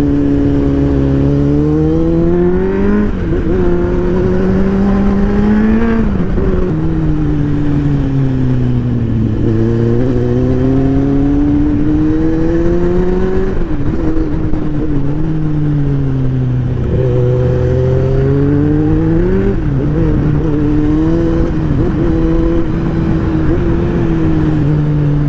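Superbike engine running while riding, its pitch climbing under acceleration and falling back as the throttle eases, several times over, with a steady rush of wind underneath.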